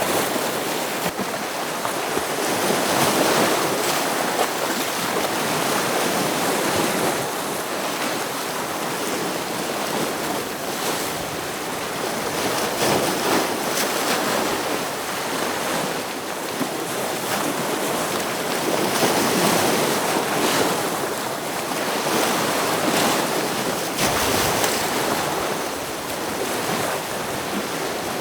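Ocean waves breaking against rocks, a continuous rush of surf that swells and ebbs every few seconds.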